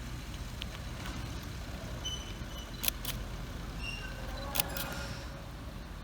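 Steady low rumble of an idling engine on a narrow-gauge sugar railway train, with a few sharp clicks about three seconds in and again about four and a half seconds in.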